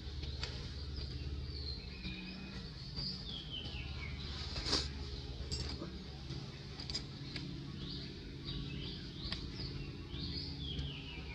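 Birds chirping, with short high calls and falling whistled notes scattered throughout over a steady low background hum, and one sharp click about halfway through.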